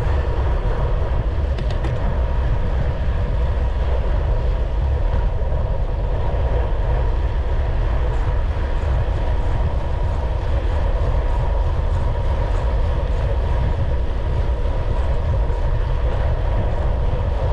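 Steady wind rush buffeting the microphone, with road rumble from moving along at speed: a loud, even low rumble with a faint steady whine above it.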